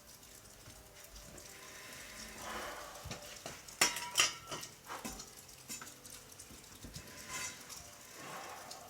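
Starter fluid burning inside a tractor tire during an attempt to set the bead: a crackling, hissing noise with sharp pops, the loudest two about four seconds in.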